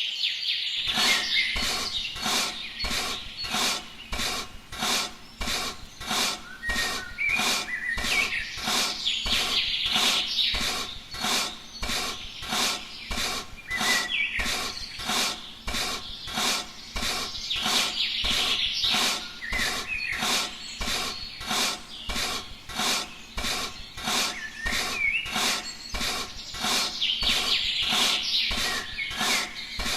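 Rhythmic rasping strokes, about two a second, like hand filing or scraping, with birds chirping behind.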